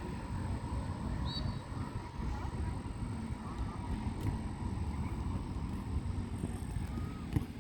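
Low, steady rumble of a departing jet airliner's engines heard at a distance, with a few faint bird chirps over it.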